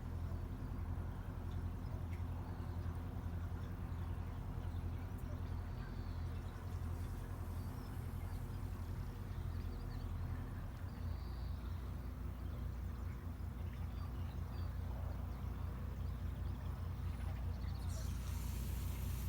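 Boat engine running steadily with a low hum. About halfway through, its beat becomes more pronounced and regular, and near the end a hiss rises over it.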